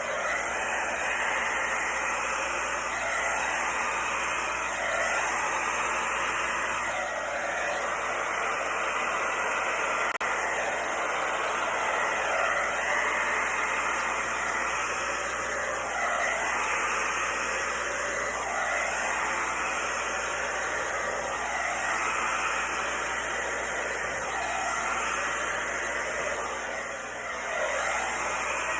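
Steady rushing hiss of an electric blower running without a break, the kind of air noise a hair dryer makes.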